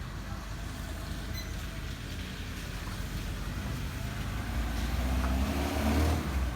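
A motor vehicle's engine rumbling past, growing louder and rising in pitch about five to six seconds in.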